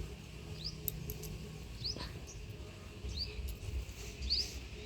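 A small bird calling: short, high chirps that sweep upward, repeated about once every second and a bit.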